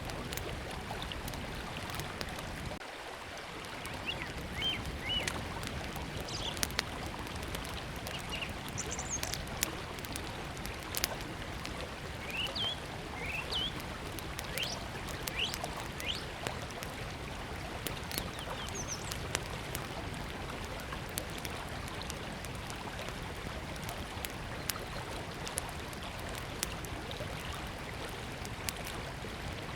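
River flowing steadily, with a small wood fire crackling in sharp, irregular pops over it. Small birds chirp in short rising notes a few times, mostly in the first half.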